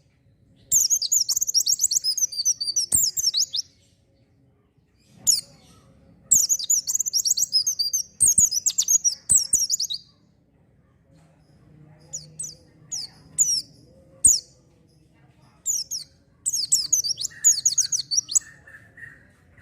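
White-eye (pleci) singing: bursts of fast, high twittering warbles a few seconds long, broken by pauses, with shorter chirps between the longer phrases.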